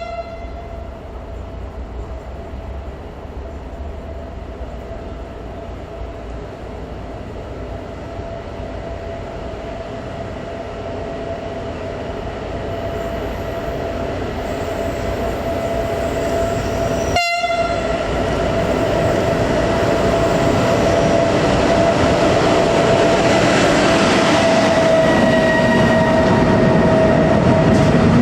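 Electric train approaching, its running noise growing steadily louder, with a steady high tone throughout and a short horn toot about seventeen seconds in.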